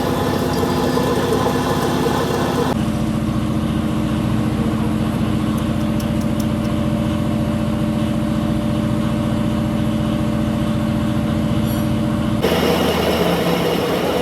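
Workshop machinery running with a steady motor hum, its character changing abruptly about three seconds in and again near the end.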